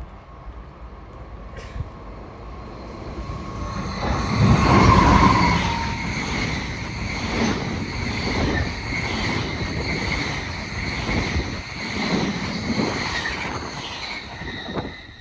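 A train passing on the rails, loudest about five seconds in, with steady high-pitched tones ringing above the wheel noise until it fades near the end.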